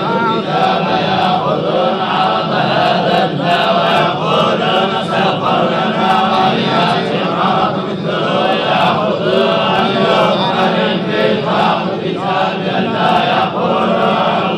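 Quranic recitation chanted by several men's voices together, a dense and continuous flow without pauses.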